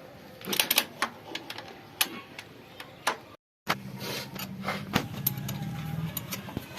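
Sharp metallic clicks and knocks of hand tools and parts being handled during tractor repair work, with a steady low hum after a short break about halfway through.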